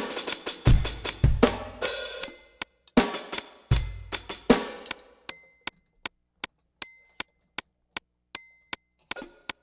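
NUX DM-8 electronic drum kit played through its module, with bass drum, snare, hi-hat and cymbal hits for about five seconds. Then only a steady metronome click is left, about two and a half ticks a second, with a higher ringing accent every few beats and a short drum hit near the end.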